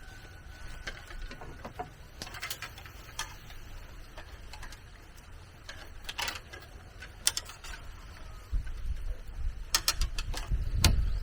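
Irregular light knocks and clicks, single and in small clusters, over low background noise; a low wind rumble on the microphone rises in the last few seconds.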